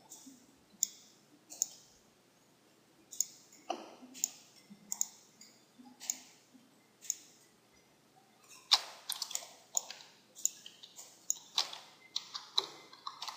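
Computer mouse clicks, single and spaced out at first, then coming quickly and in clusters from about two-thirds of the way through.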